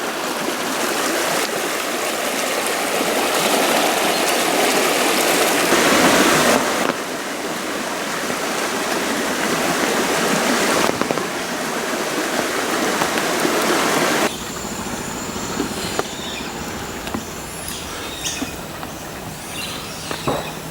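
Creek running full after heavy rain: a steady rush of flowing water that changes level abruptly several times and drops quieter about two-thirds of the way through. Faint high chirps sound over the water in the last few seconds.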